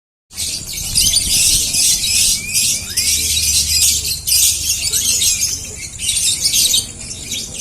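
Lovebirds chattering shrilly, many at once in a dense, unbroken high-pitched trill, starting abruptly about a third of a second in, with a low rumble underneath.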